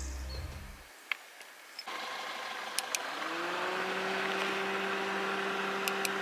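A car engine running with a steady hum; a faint whine rises and then holds steady about three seconds in.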